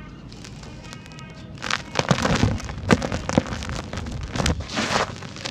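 Dry, dusty sand-cement chunks crumbling and breaking apart: after a quiet start, a run of crackly crunches and sharp snaps begins about a second and a half in and continues.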